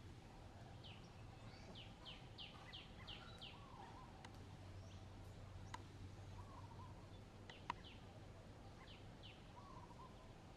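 Faint bird calls: a quick run of about six short downward chirps a second or so in, and a few more later. A single sharp click about three-quarters of the way through is the loudest moment.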